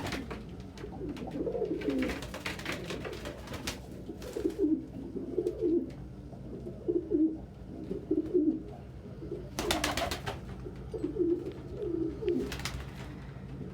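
Domestic pigeons cooing over and over, low rolling coos one after another, with a few brief rustling bursts in between.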